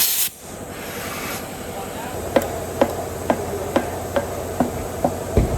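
A hammer striking metal in steady, evenly spaced blows, about two a second, starting about two seconds in, each blow with a short metallic ring.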